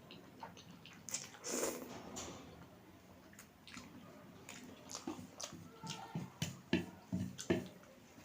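Close-up eating sounds from a mouthful of spicy instant noodles: a wet slurp about a second and a half in, then chewing with a run of sharp smacks and clicks near the end.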